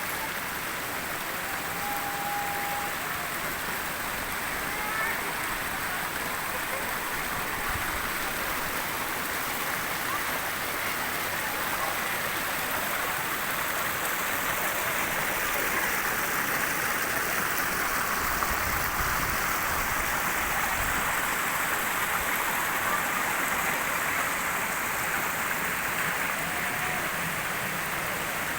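Steady rush of running water, even and unbroken, growing slightly louder through the middle.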